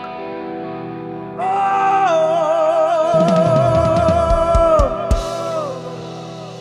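Live band music: a long wavering melody note is held, under a drum fill with low bass notes, ending in a cymbal crash about five seconds in.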